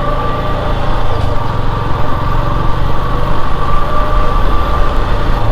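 Yamaha FZS motorcycle's single-cylinder engine running steadily, heard from the rider's seat.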